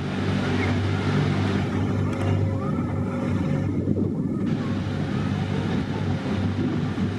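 A steady engine drone with a low hum, running evenly.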